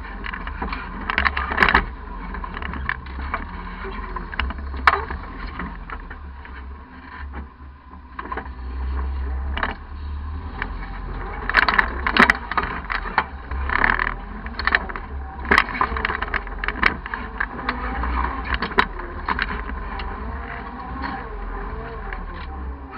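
Off-road 4x4 crawling through a rocky river: a low, steady engine rumble with repeated sharp knocks and clunks.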